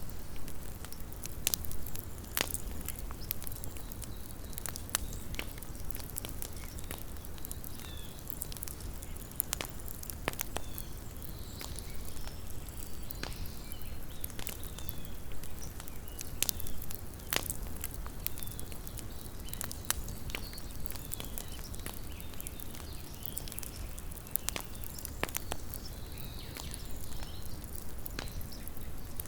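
Small wood campfire crackling, with sharp, irregular pops and snaps of burning wood over a low steady rumble.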